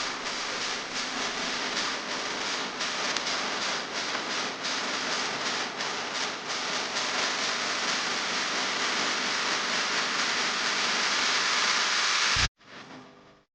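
Heavy rain falling, a steady hiss with many small drop ticks. It cuts off suddenly near the end, and a fainter patch of the same kind of noise follows for about a second.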